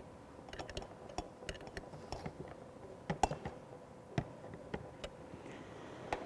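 Light, irregular clicks and taps of metal parts being handled: adapter fittings on a PPR pipe fusion welding machine being fiddled with or swapped.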